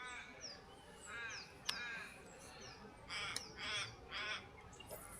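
Crows cawing faintly: a handful of short, harsh calls in the middle of the stretch, with thin high whistles of small birds over the top. A single sharp click about a third of the way in.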